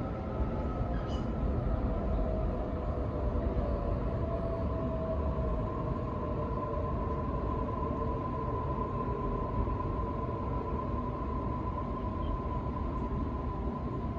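Sydney Trains Waratah A set running between stations, heard from inside the carriage: a continuous low rumble of wheels on track with a steady whine from the IGBT-VVVF traction inverter and motors.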